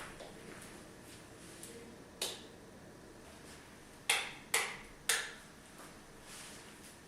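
Light sharp clicks and taps of objects being handled or set down in a kitchen: one about two seconds in, then three in quick succession a couple of seconds later.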